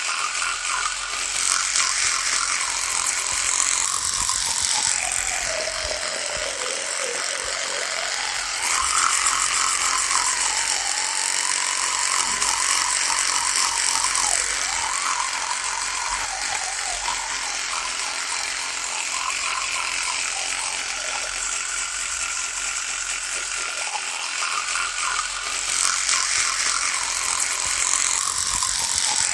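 Electric toothbrush running with a continuous buzz. Its pitch sags and recovers several times, and it gets louder and brighter in a few stretches.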